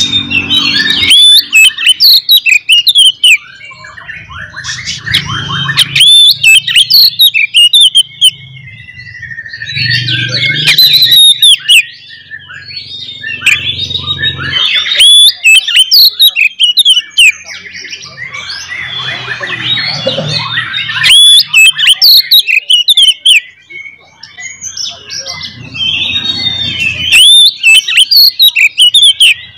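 Oriental magpie-robin (kacer) singing loudly in repeated bursts of rapid, varied whistles and chirps, with a low hum coming and going underneath.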